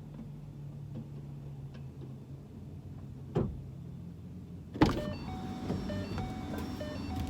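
Parked car with the engine off: a single knock about three seconds in, then a sharp thud near five seconds as the car is opened, after which outside noise and faint short beeps come in.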